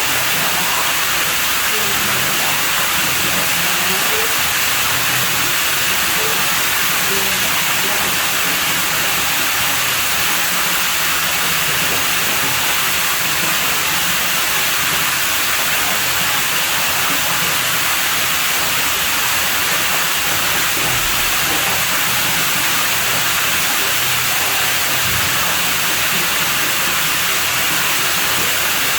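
Steady, even rush of running water at a private pool, with no change in level.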